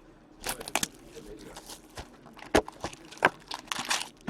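A sealed trading-card box being opened: plastic wrapping tearing and crinkling in short rustling bursts, with a few sharp clicks of cardboard.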